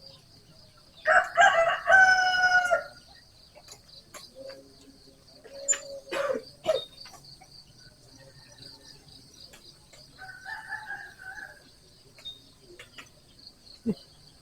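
A rooster crowing loudly about a second in, followed by a fainter crow about ten seconds in.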